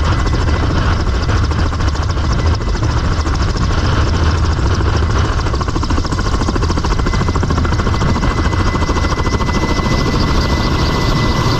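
Helicopter running steadily at close range: a loud low rotor and engine rumble with fast pulsing, and a steady high turbine whine above it.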